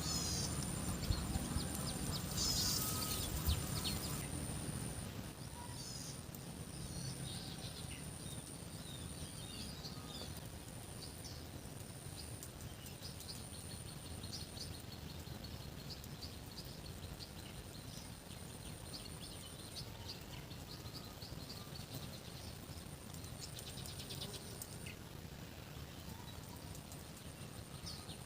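Rural outdoor ambience: birds chirping now and then over a low steady rumble, with a very high, thin, steady trill that breaks off and resumes every few seconds.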